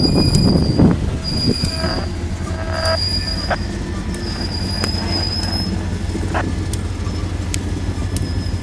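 Freight train of tank cars rolling past, a steady low rumble of wheels on rail with a thin high-pitched wheel squeal that comes and goes several times, and scattered sharp clicks.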